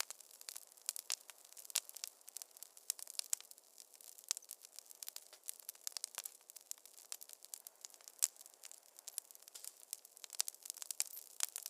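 Wood fire crackling steadily in a fireplace: many sharp irregular pops and snaps over a soft hiss, with no low rumble.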